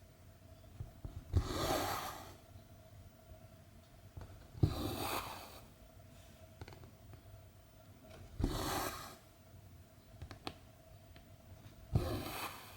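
Cross-stitch needle punched through 14-count canvas and cotton thread drawn through, four times about three and a half seconds apart: each a sharp tap followed by a short swish of thread through the fabric.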